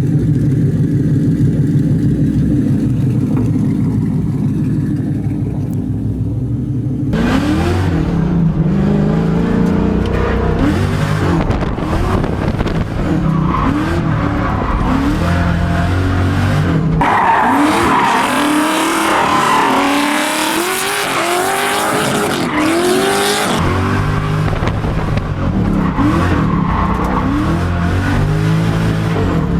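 Nissan 240SX drift car engine running steadily for several seconds. Then, about seven seconds in, it is driven hard, revving up and down over and over, with tyre squeal and skidding as it drifts.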